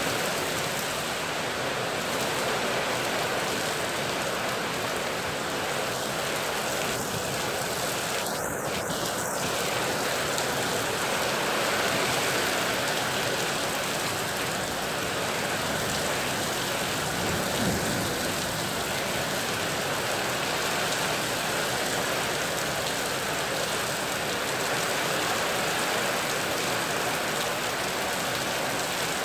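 Heavy rain pouring onto a paved road and surrounding vegetation, a dense steady hiss and patter that holds at the same level throughout.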